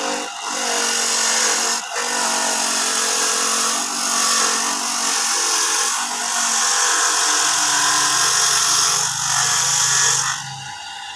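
Electric coconut grating machine running and grating coconut, a steady loud rasping whir. It drops away near the end.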